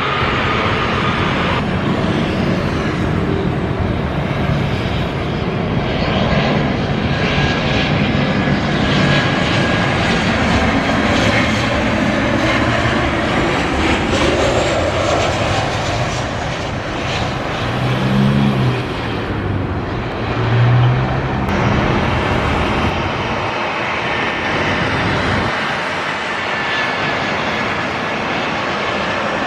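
Airliner engines, a loud steady rush of noise that holds through the whole stretch, with a few brief low bumps partway through.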